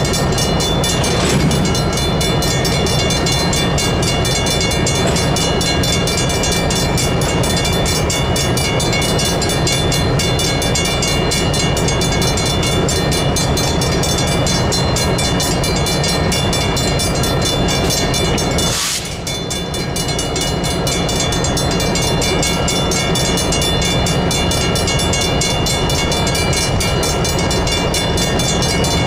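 Diesel switching locomotives and rail cars rumbling slowly through a railroad crossing, with the crossing's electronic bell ringing steadily over them.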